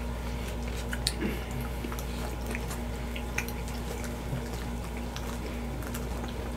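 Several people chewing pizza, with scattered small mouth clicks over a steady low hum.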